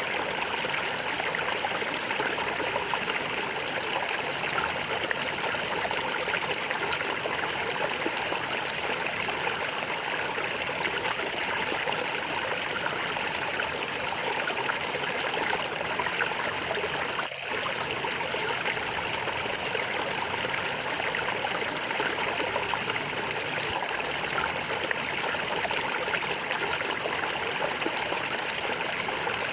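Flowing water gurgling steadily, like a small stream, with no pause or change in pace.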